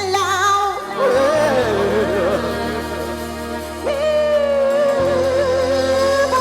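Live afro-fusion band music: a singer holds long, wavering notes over sustained low chords, with a new phrase coming in about a second in and another about four seconds in.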